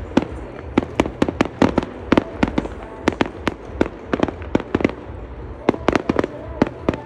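Fireworks going off in quick succession: an irregular string of sharp reports, several a second, with a short lull about five seconds in.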